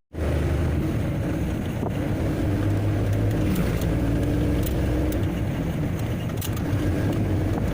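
Large truck's engine running steadily with a low hum, with a few faint light clicks.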